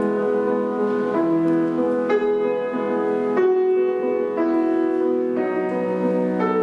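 Solo piano playing classical music slowly, with held notes and chords changing about once a second.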